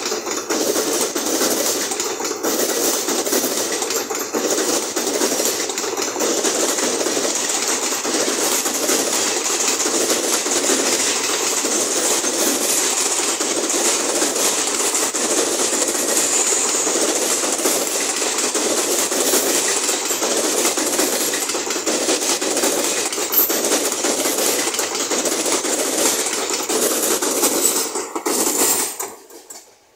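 Passenger train of ICF coaches passing at speed close by: a loud, steady rush and clatter of steel wheels on the rails. The noise drops away sharply near the end as the last coach goes past.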